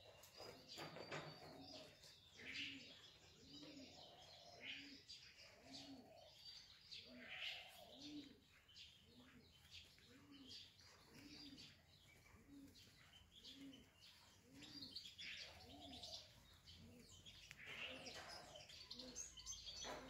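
Faint bird calls: a low cooing call repeated about once a second, with scattered high chirps over it.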